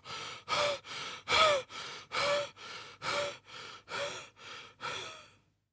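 A person breathing fast and heavily, in and out about two breaths a second, every other breath louder, some with a faint gasping voice in them. It stops about five and a half seconds in.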